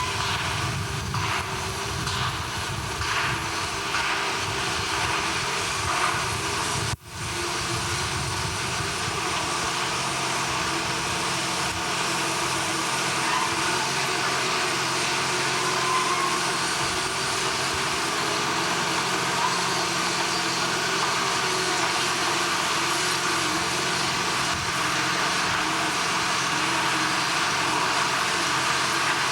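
Steady mechanical rumble and hiss of heavy machinery. The sound drops out briefly about seven seconds in, then carries on a little lighter in the low end.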